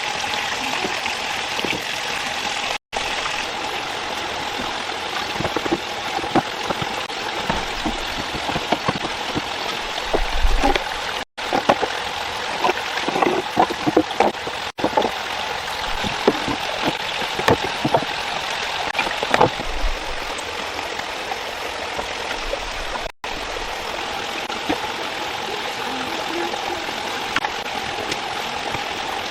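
Steady rushing of a flowing stream. A run of short clicks and knocks in the middle. The sound drops out briefly four times.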